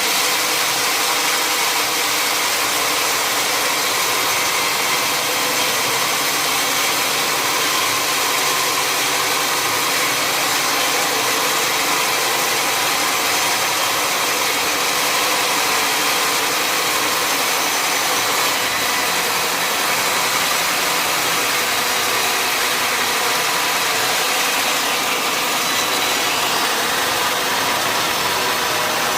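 Sawmill machinery running steadily: a constant engine-like drone with a strong hiss over it, without a break or change.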